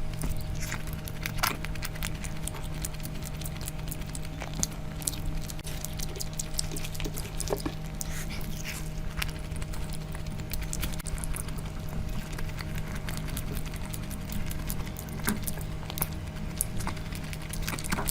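Close-up eating sounds: chewing, lip smacking and wet squishing of curry and rice, heard as a rapid stream of small wet clicks over a steady low hum.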